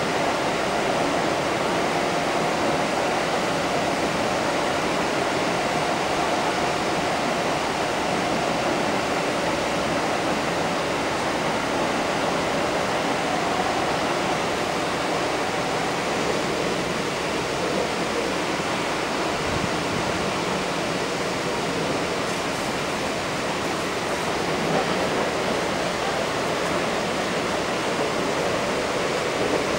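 Kintetsu 1230 series electric train heard from inside the car while running at speed: a steady rumble of wheels on rail and rushing air, with a faint hum that fades about halfway through.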